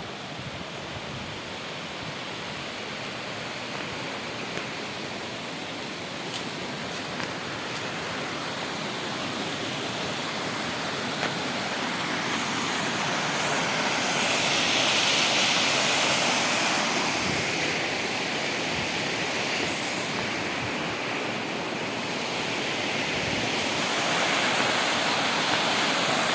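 Waterfall rushing: a steady, dense roar of falling water that grows louder about halfway through.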